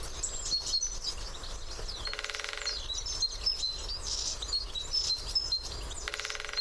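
Great spotted woodpecker drumming: two short, very fast rolls of beak strikes, each about half a second long, one about two seconds in and one near the end. Small birds chirp throughout.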